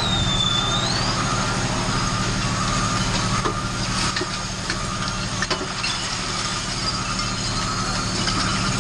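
Mack rear-loader garbage truck's diesel engine running steadily under hydraulic load while the ejector blade pushes the compacted load out of the open tailgate. A backup alarm beeps faintly behind it.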